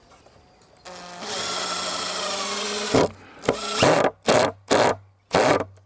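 Power drill driving a screw into wood: one steady run of about two seconds, then several short bursts on the trigger.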